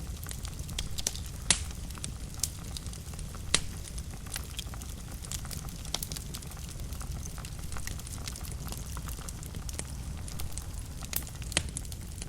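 Wood fire burning in a fireplace: a steady low rumble of flame with irregular sharp crackles and pops, the loudest at about a second and a half in and again near three and a half seconds.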